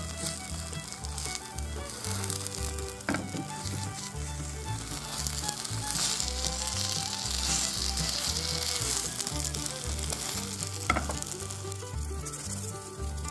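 Grated daikon batter sizzling in oil in a rectangular tamagoyaki pan, with a spatula scraping and turning it; two sharp taps of the spatula on the pan, about 3 seconds in and near the end.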